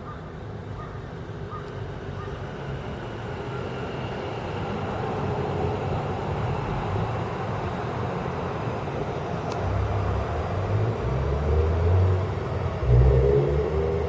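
A passing vehicle's noise, growing steadily louder, with heavy low rumbling in the last few seconds.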